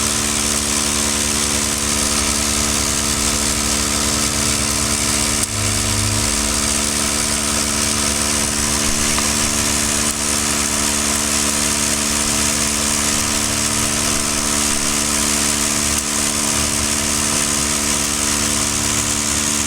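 Electric drywasher motor running steadily, a constant hum over an even hiss, with a single brief thump about five and a half seconds in.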